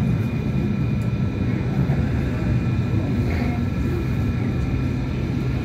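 Hong Kong Light Rail Phase I car running, heard from inside the cabin: a steady low rumble and hum from the running gear, with a faint steady high whine above it.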